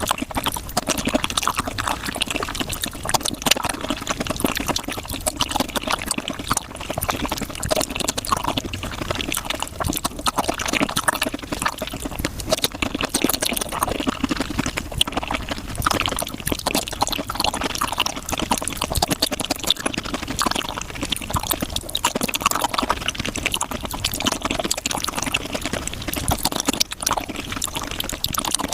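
Wet chewing, smacking and slurping of raw shrimp, close-miked and played back sped up, so the mouth sounds run together into a dense, unbroken stream of wet clicks.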